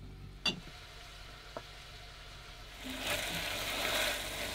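Apple slices caramelizing in honey and ghee in a pot, sizzling and being stirred; the sizzling starts about three seconds in. A sharp click comes about half a second in.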